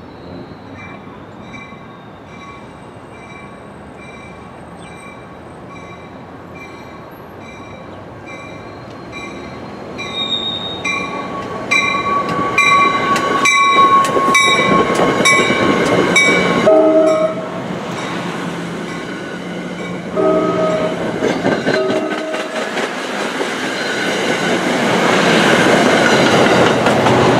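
NJ Transit push-pull commuter train approaching with a bell ringing in even strokes that grow louder, then passing close with a rising rumble and wheel noise. A train horn sounds briefly about 17 seconds in and again for a second or two a few seconds later.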